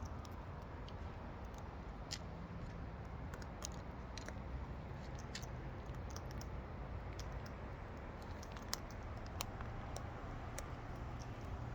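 Parrots cracking seed with their beaks: irregular sharp clicks and cracks over a steady low background rumble.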